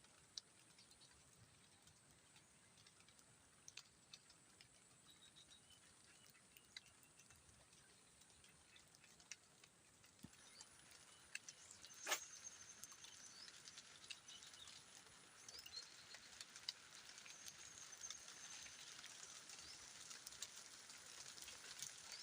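Faint patter of light rain setting in, scattered drops ticking at first and then a steady hiss that grows from about halfway through, with one sharper click near the middle.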